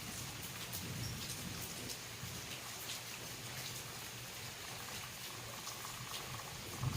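Steady rain falling, with scattered drops ticking on a surface and a low rumble underneath. A louder low rumble swells in right at the end.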